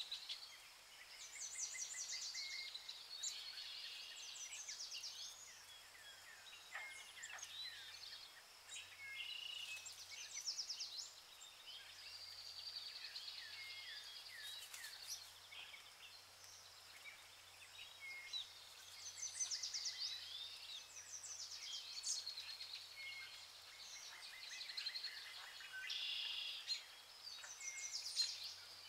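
Several birds chirping and singing over a faint hiss of outdoor ambience, with short calls and trills overlapping.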